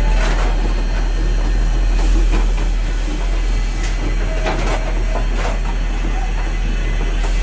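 Riding in the cab of a moving narrow-gauge steam locomotive: a steady low rumble with a handful of sharp, unevenly spaced knocks.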